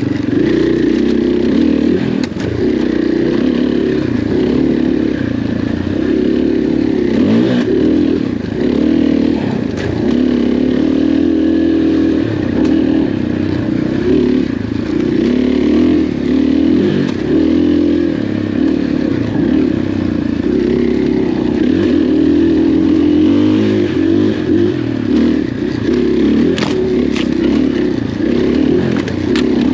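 KTM dirt bike engine running under constantly changing throttle, its pitch rising and falling as it is ridden on an off-road trail, with a few sharp knocks now and then.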